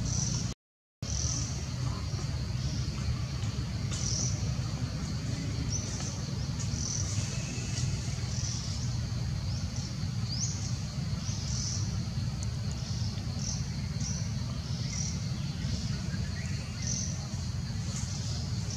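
Outdoor woodland ambience: short, high bird chirps repeating every second or so over a steady low rumble. The sound cuts out completely for a moment about a second in.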